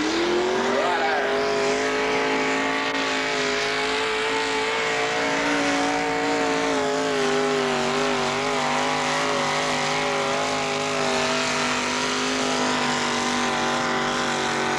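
Tractor engine held at high revs under full load while pulling the sled: a steady, loud engine note that has just revved up, wavering slightly around the middle.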